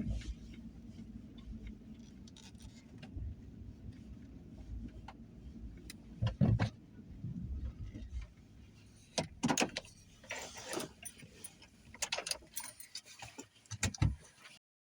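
A low vehicle rumble for the first half, then several sharp clicks and a metallic jingling, like keys, from about nine seconds in until the sound cuts off just before the end.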